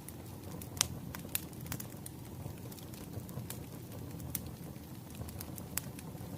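Wood fire burning with a steady low rumble and irregular sharp crackles and pops, one loud pop about a second in.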